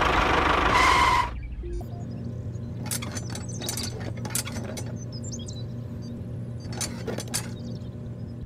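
A toy tractor's small motor runs loudly and cuts off suddenly about a second in. Then come a few light metallic clicks as a wire hitch ring and pin are fitted on the tractor's drawbar, over a low steady hum with faint bird chirps.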